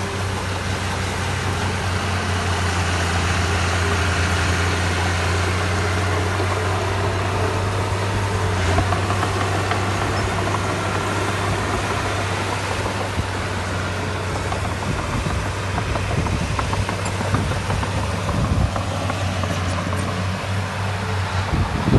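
Diesel engine of heavy construction machinery running steadily with a deep, even hum. From about fifteen seconds in there is irregular knocking and clanking.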